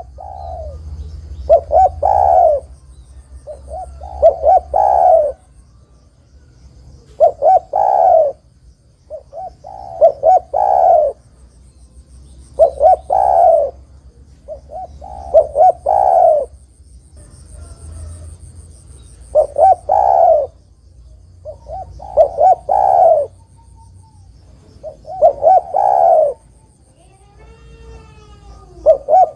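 Spotted dove cooing: short phrases of a few coos, repeated about every three seconds. A faint high-pitched chirping sounds in the background.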